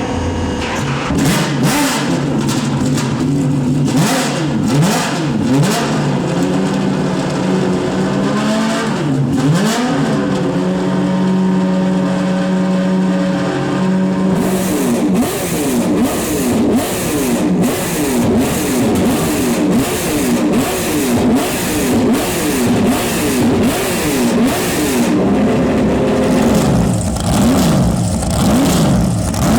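Racing car engines at high revs, the pitch repeatedly climbing and dropping back as the cars change gear, with a different car's sound taking over about halfway through.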